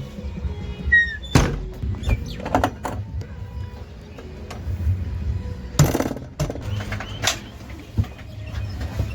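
Heavy diesel machinery running low and steady, with several sharp knocks and clanks scattered through.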